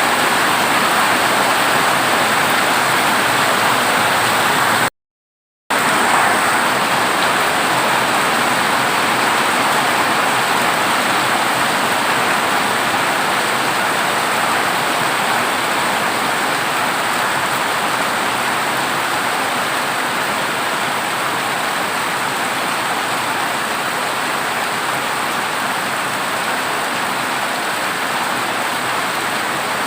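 Heavy rain drumming steadily on a corrugated zinc roof, with a brief cut to silence about five seconds in.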